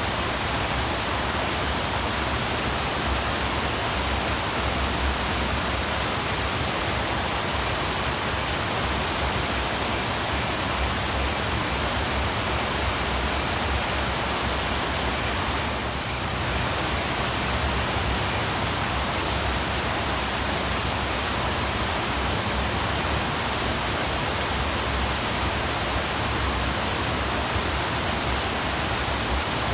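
Waterfall rushing steadily, an even roar of falling water with no change.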